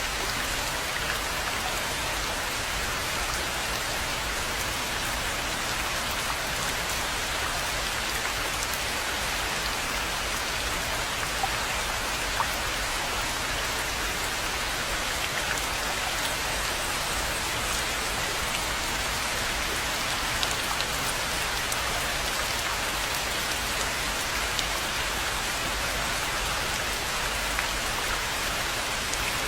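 Steady rain falling, with scattered louder single drops standing out from the hiss.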